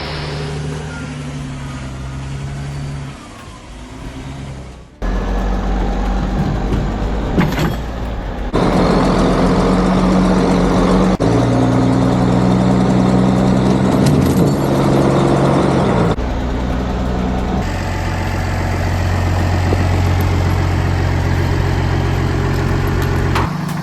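Large farm tractor engines running hard in a series of short clips. The engine note changes abruptly several times as one machine gives way to the next.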